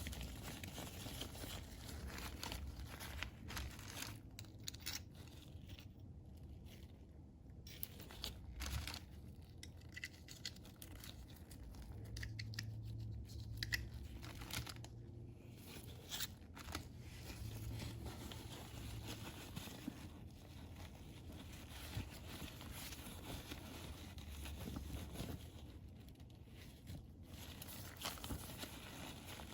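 Irregular scraping, rubbing and crinkling from hand work on oil filter parts being cleaned, with scattered small clicks.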